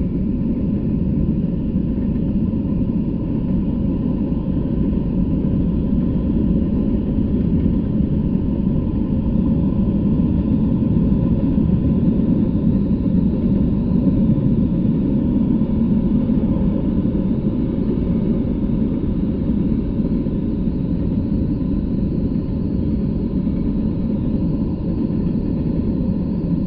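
Intermodal freight train of truck trailers on flatcars rolling past at a steady speed: a continuous low rumble of the wheels on the rails, heard through a trail camera's microphone.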